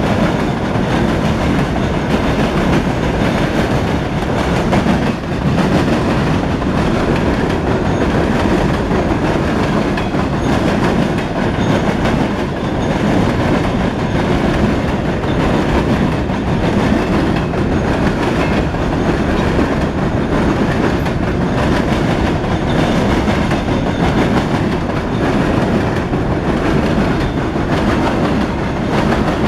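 Freight cars of a loaded rock train rolling past at steady speed, a continuous loud rumble with wheels clicking over the rail joints.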